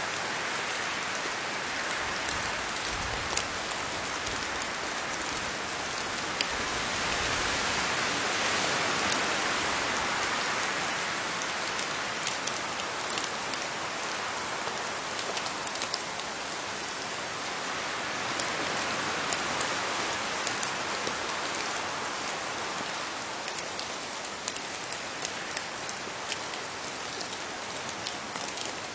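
Steady rain falling on leaves, a continuous hiss dotted with the sharp taps of single drops, swelling gently and easing off again.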